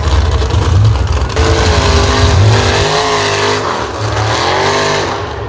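Mega mud truck's engine revving hard over a deep rumble. From about a second in, its pitch rises and falls several times, then drops away near the end.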